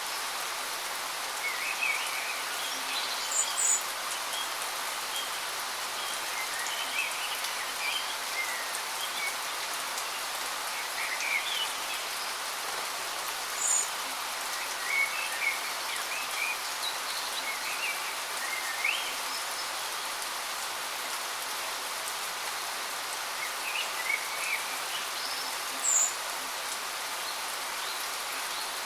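Steady rushing of a waterfall, with birds chirping now and then over it in short, scattered calls.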